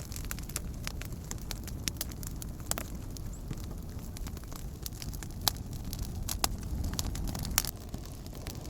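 Wood campfire crackling: irregular sharp pops, a few louder ones in the second half, over a steady low rumble.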